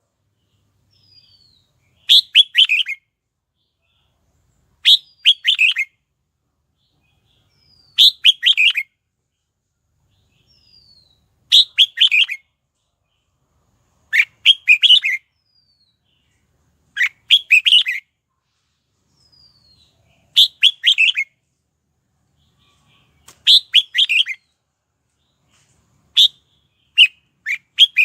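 Red-whiskered bulbul singing short, quick song phrases, about one every three seconds, with a faint falling note between some of them.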